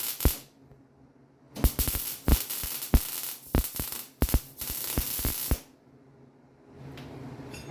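Wire-feed welder laying beads on a steel Jeep frame cross member: the arc crackles and hisses with sharp pops, once briefly at the start and again in a run of about four seconds, stopping between beads. A steady low hum comes in near the end.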